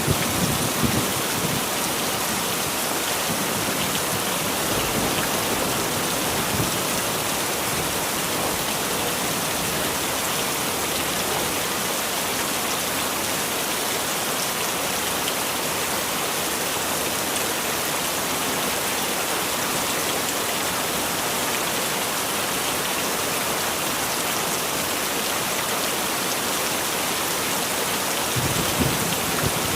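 Steady heavy rain, a dense even hiss of drops striking surfaces, with a low rumble of thunder fading just after the start and another swelling near the end.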